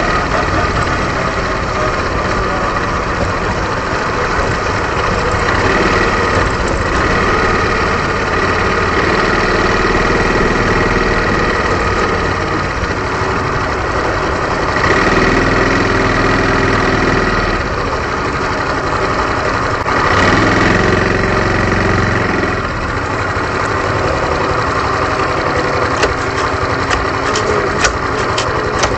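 Honda Super Cub 110's small single-cylinder four-stroke engine running on the move, under heavy wind noise. The engine note changes a couple of times midway, about halfway through and again a few seconds later.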